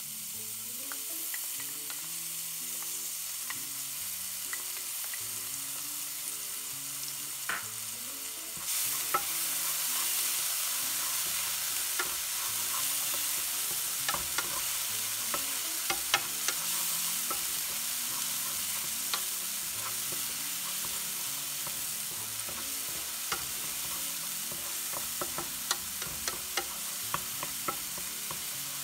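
Food sizzling in a hot frying pan while being stirred, with scattered clicks and scrapes of a utensil against the pan. The sizzle gets louder about nine seconds in.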